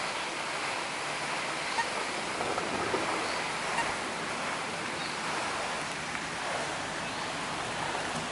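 Steady rushing water, with a few faint clicks between about two and four seconds in.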